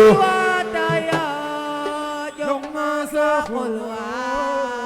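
Live assiko band music: long held melodic notes, softer than the sung phrase just before, with a few light percussion taps near the middle.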